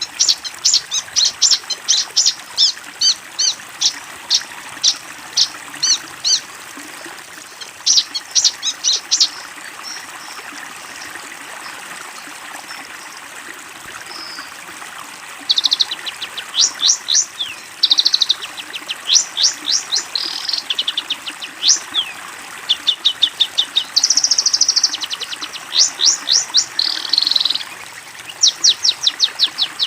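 Long-tailed shrike (cendet) singing: bursts of rapid, sharp repeated chirping notes, with a pause of a few seconds about a third of the way through.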